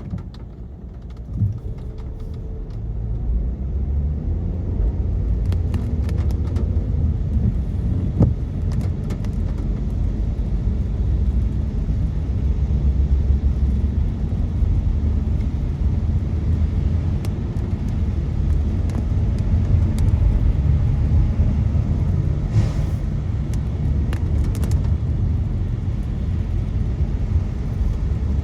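Car driving on a rain-wet road, heard from inside: a steady low rumble of tyres and engine that grows louder about three seconds in as the car picks up speed. Scattered faint ticks sound over it.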